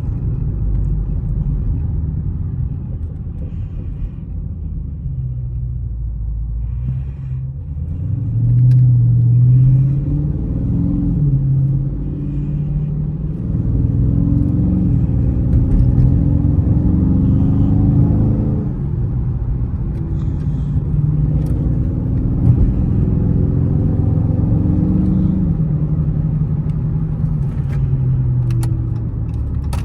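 Dodge Charger Scat Pack's 6.4-litre HEMI V8 running while driving in traffic. It is steadier at first, then pulls harder from about eight seconds in, its pitch rising and falling repeatedly as the car speeds up and eases off.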